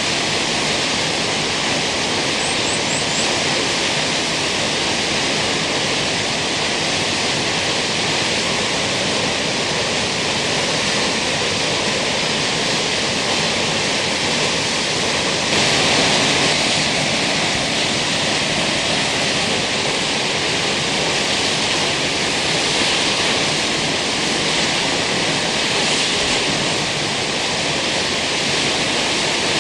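Kegon Falls waterfall: a steady, loud rush of falling water, swelling slightly about halfway through.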